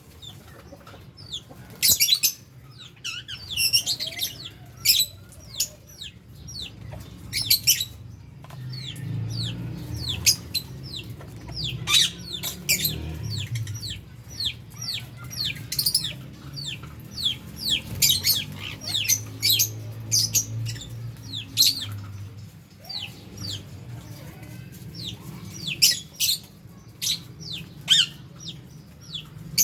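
A flock of lovebirds and budgies chirping: a constant chatter of short, shrill calls, each a quick falling note, overlapping with no pause. A low hum sits underneath through the middle of the stretch.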